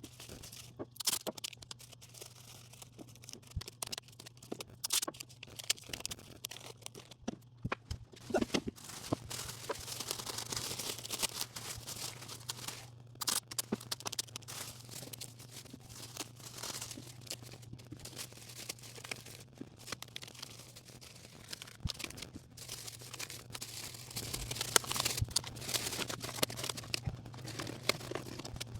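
Fine 600-grit sandpaper rubbed by hand over tractor paint: irregular scratchy strokes with scattered clicks and knocks, over a steady low hum.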